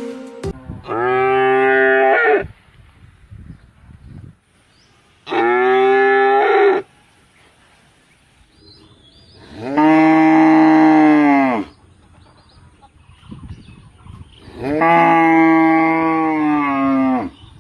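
Cow mooing four times, each a long call of about two seconds with gaps between them.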